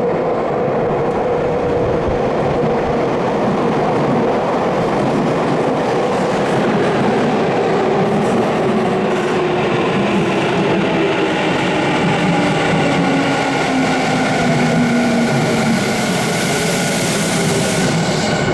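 Electric commuter train pulling into an underground station platform. Its traction-motor whine falls steadily in pitch as it brakes, over the rumble of wheels on rail, and a hiss builds near the end.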